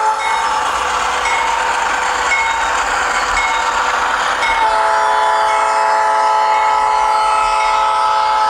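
HO-scale Kato GE Dash 9-44CW model locomotive's ESU LokSound 5 sound decoder playing a diesel horn chord over the running diesel engine. One blast ends just after the start and a long blast begins about halfway through. Between the blasts a short high ding repeats about once a second.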